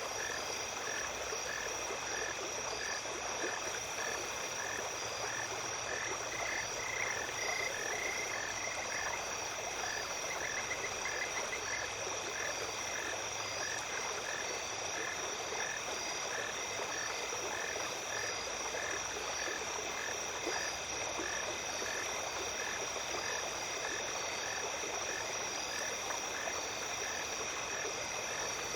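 Night stream ambience: water flowing steadily under a dense chorus of insects holding high, continuous tones. A short call repeats evenly about one and a half times a second throughout, with a brief higher trill about a third of the way in.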